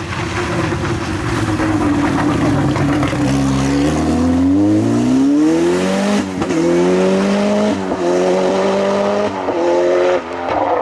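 Off-road rally car accelerating hard, its engine climbing in pitch through the gears with a short break at each of three upshifts from about three seconds in, then backing off near the end.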